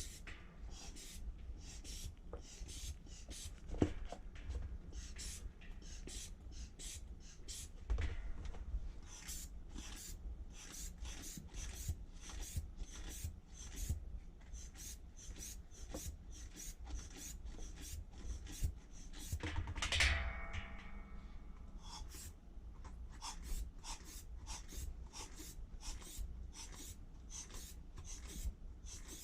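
Metal pick tools scraping and prying under the edge of a stuck washing-machine wash plate: short rasping strokes repeated about twice a second, with one louder scrape and a brief squeak about two-thirds of the way through.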